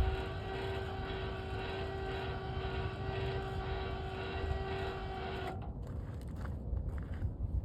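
Motor of a motorized motorcycle carrier running with a steady whine over a low rumble, cutting off suddenly about five and a half seconds in, followed by a few light clicks.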